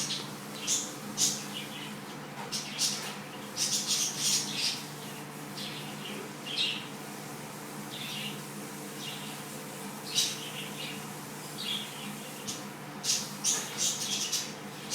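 Cockatiel making short, scattered chirps and scratchy sounds in clusters, over a steady low hum.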